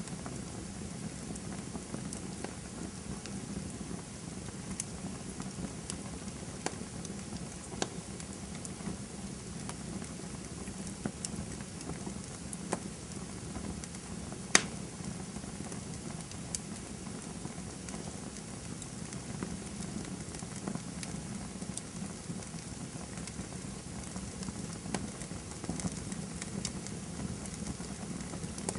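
Campfire crackling: a steady low hiss and rumble of burning wood with scattered sharp pops, one much louder pop about halfway through.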